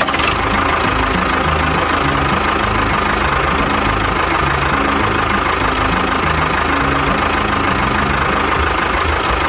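A steady engine sound, like a tractor running, over background music with a stepping bass line.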